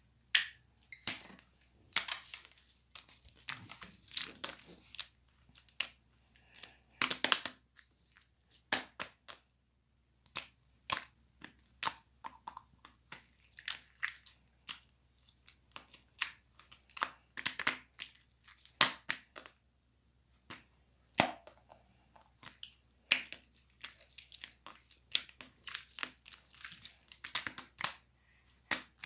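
Slime being squeezed, pressed and stretched by hand, giving a string of irregular sharp clicks, pops and crackles.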